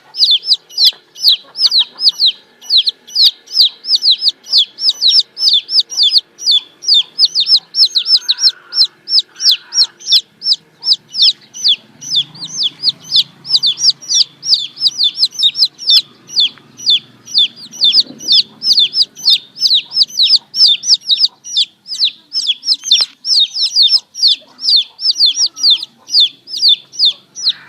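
Baby chicks peeping continuously: a rapid, unbroken run of short, high-pitched peeps, each falling in pitch, several a second.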